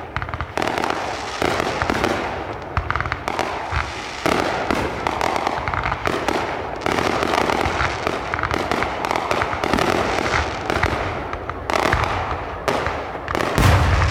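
Consumer fireworks going off in a dense barrage: many sharp bangs and crackles overlapping, with a loud deep boom about a second before the end.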